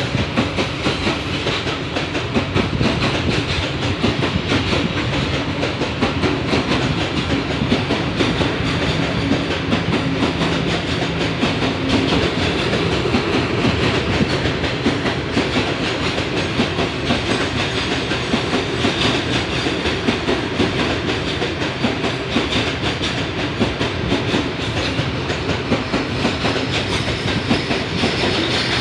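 Empty train's wagons rolling along the track: steady, continuous running noise of wheels on rails.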